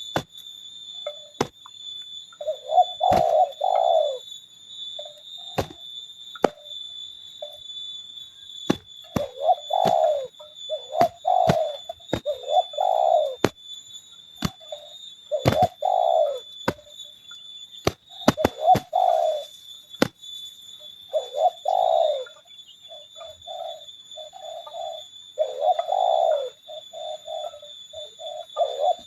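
Spotted doves cooing, one low phrase after another, each about a second long, with short pauses between them. Scattered sharp clicks run throughout, over a steady high-pitched whine.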